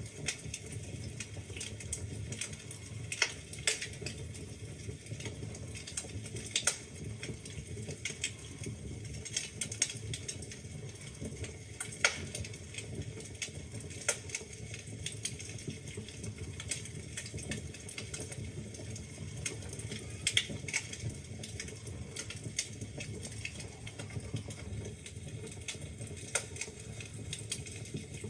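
Wood fire crackling in a fireplace: burning logs give a steady stream of irregular sharp pops and snaps over a low, even rumble of flame, with a few louder pops scattered through.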